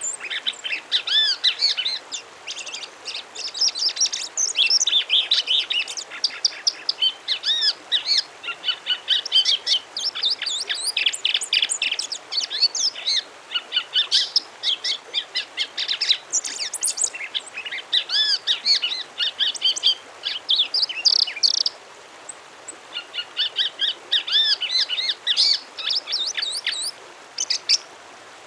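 A Brazilian songbird singing a long, rapid, varied song of high chirps and whistled notes, with a short pause a little past the middle.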